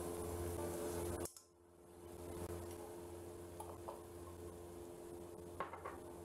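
A few light clicks of kitchen utensils against a wok over a faint steady hum. The sound drops out briefly just over a second in.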